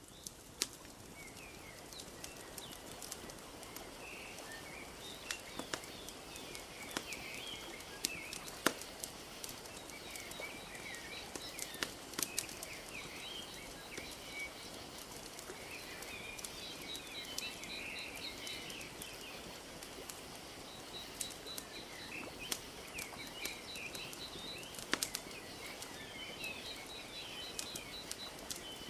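Wood fire crackling with scattered sharp pops, over a steady wash of lapping lake water. Birds chirp throughout, and a rapid, high, repeated trill comes in and out in the second half.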